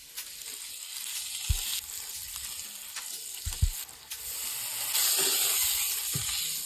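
Food sizzling in a frying pan while it is stirred, with a few dull low thumps; the sizzle grows louder about five seconds in.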